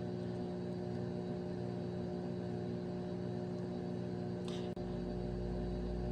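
Steady low electrical hum, with a brief faint rustle about four and a half seconds in.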